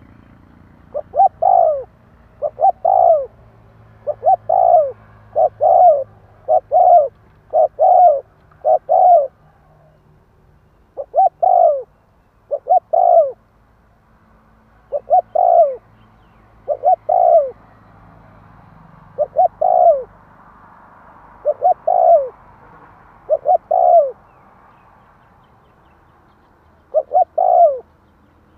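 Spotted dove cooing: short phrases of two or three low hooting notes, repeated every second or two with a couple of longer pauses. It is a decoy dove's call, used to draw wild doves in.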